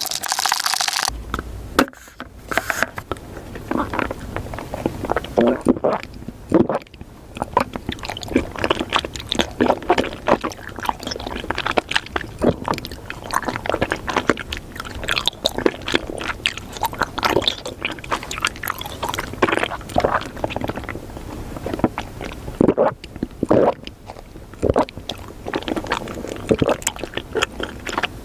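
Close-up crunching and clicking noises, dense and irregular, like chewing with the mouth near the microphone.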